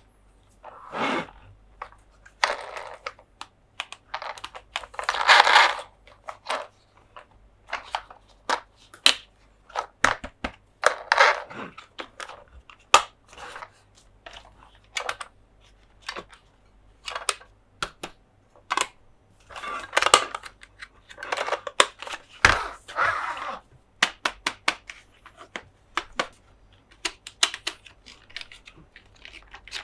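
Close-up handling of plastic toys: irregular clicks and taps mixed with short scratchy rustles.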